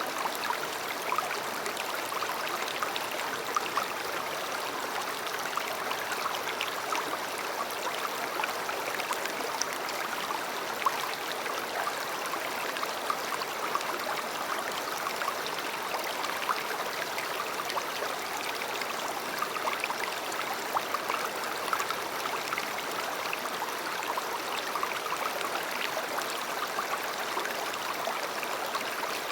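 A river or stream flowing steadily over stones, a continuous rushing burble with fine splashing detail.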